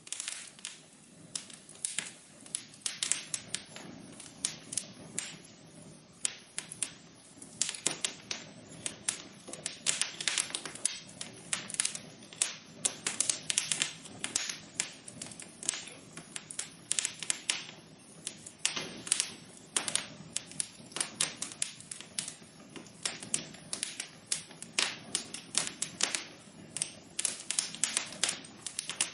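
Wood fire crackling in a fireplace: constant irregular pops and snaps over a soft, steady rush of burning.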